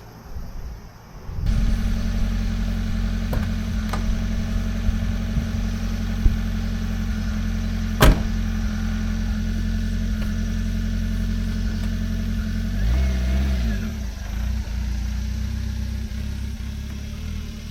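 Kei truck engine running steadily, heard from close by. The engine sound comes in suddenly about a second and a half in. There is a sharp knock about eight seconds in, and the engine's pitch dips and comes back up about thirteen seconds in.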